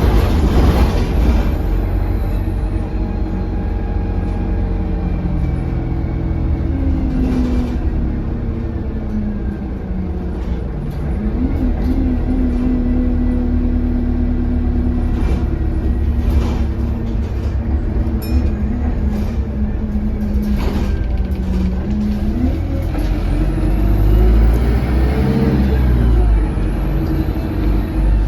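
Alexander Dennis Enviro200 bus engine running under way, its note sinking and rising with the revs, with a high-pitched turbo whistle that climbs and falls near the start and again near the end, which the uploader puts down to a turbo leak.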